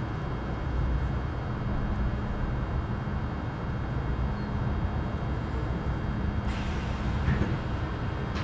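Inside the car of a Metro Cammell M-Train electric multiple unit with GEC GTO chopper traction control: steady low rumble of the running train, its traction equipment and wheels on the rails, with a brief hiss about six and a half seconds in.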